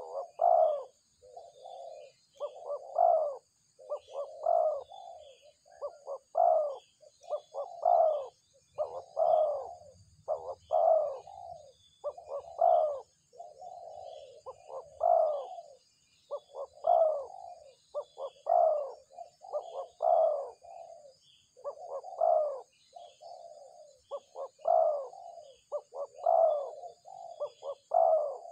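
A dove cooing over and over: a short phrase of a few low notes roughly every two seconds, with a faint steady high-pitched drone behind it.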